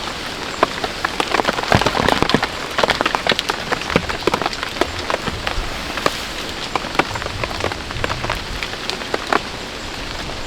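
Steady rain falling, with many irregular close drop hits ticking over an even hiss.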